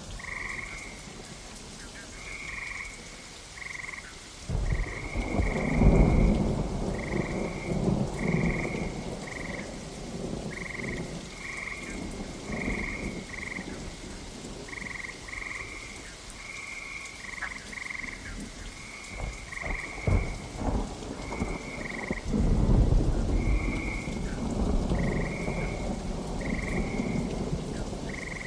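Steady rain with thunder rumbling twice, first about five seconds in and again about twenty-two seconds in, while a frog croaks over and over in short calls.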